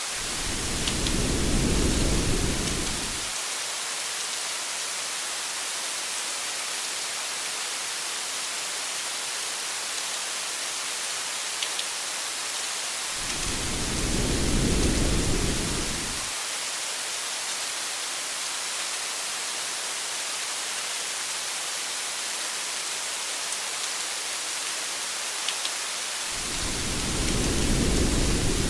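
Steady rain hiss with a few faint drop ticks, and three low rumbles of thunder, each lasting about three seconds: one at the start, one about halfway through and one near the end.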